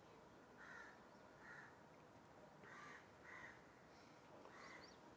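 Faint, repeated bird calls, about five short calls in loose pairs, over quiet room tone, with a brief higher chirp near the end.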